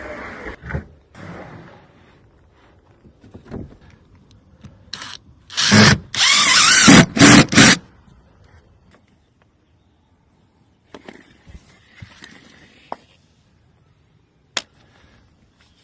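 Power drill running in several short, loud bursts, one after another, about five to eight seconds in. Scattered quieter knocks and clicks of work come before and after.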